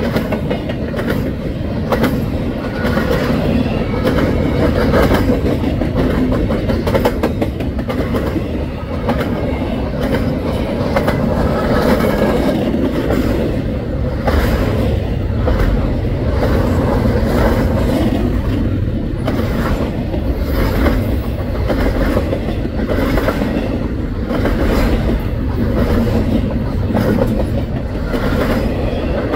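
Double-stack intermodal freight cars rolling past in a steady rumble, their wheels clacking repeatedly over the rails.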